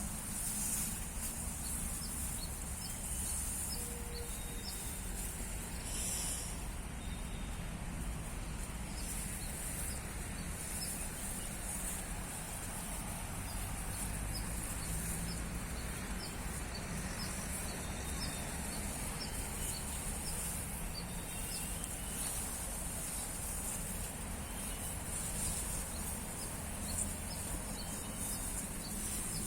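Outdoor field ambience: insects shrill in a high, pulsing drone, with many short, high chirps repeating throughout over a low rumble.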